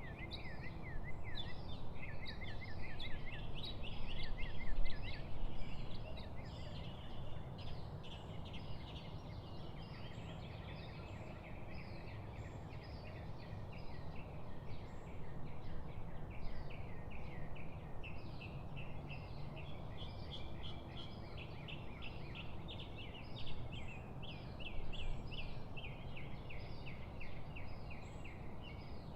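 Several songbirds chirping and trilling in rapid, overlapping phrases, over a steady low background hiss.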